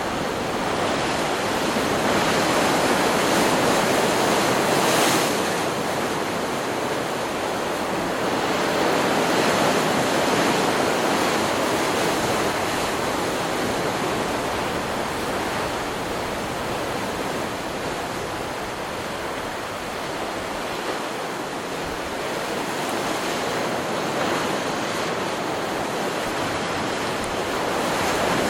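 Stock recording of ocean surf: waves breaking and washing in, a continuous rushing noise that swells and eases over several seconds.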